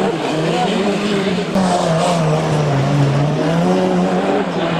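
Race car engine revving, its pitch rising and falling as it accelerates and lifts off on a slalom course.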